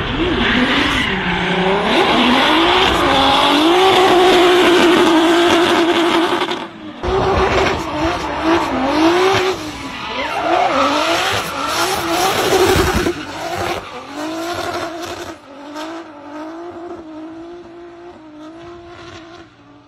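Turbocharged VR6 engine of an Audi RS5 drift car, its pitch rising and falling again and again as the throttle is worked through a drift, over the hiss of sliding tyres. The sound changes abruptly about seven seconds in and fades over the last few seconds.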